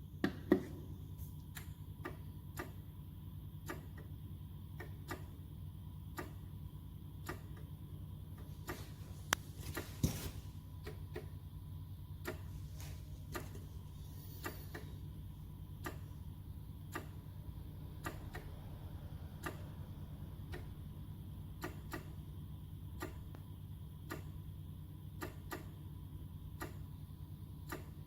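Regular ticking, about three ticks every two seconds, over a low steady hum, with a few louder knocks about half a second in and around ten seconds.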